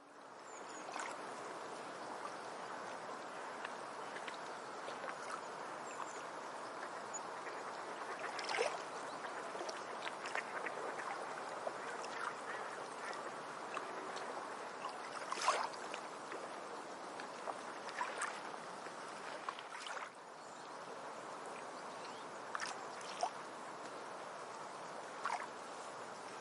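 Eurasian coots, adult and chicks, calling: a few short, sharp calls scattered over a steady rush of flowing water.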